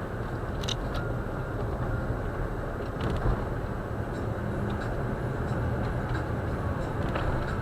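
Car driving on a snowy road on Blizzak winter tyres: a steady, muffled rumble of tyre and road noise with the engine underneath, and a few faint clicks about a second in.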